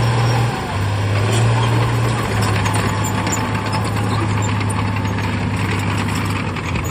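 Heavy diesel engine of earthmoving machinery running steadily, its note dropping slightly about half a second in. A busy rattling and clanking runs over it through the second half.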